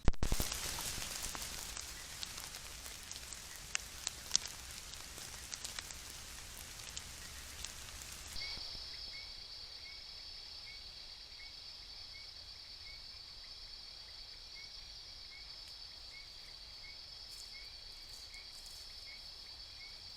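Forest ambience as picked up by a trail camera. There is a hiss with scattered ticks and pops at first. About eight seconds in it changes abruptly to a steady high-pitched trill, with a short chirp repeating about every two-thirds of a second.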